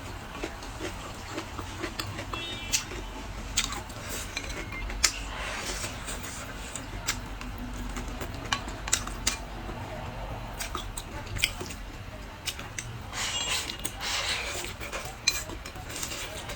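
Eating utensils clicking and clinking against dishes and bowls, in scattered sharp taps, with a couple of longer stretches of handling and eating noise.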